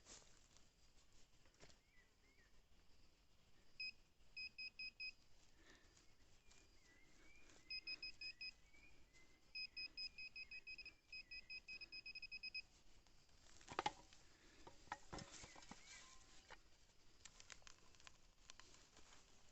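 Nokta Makro Simplex+ metal detector giving short, high beeps over buried metal: a few at a time, then a longer, quicker run of about a dozen. About fourteen seconds in, a short burst of scuffing and rustling.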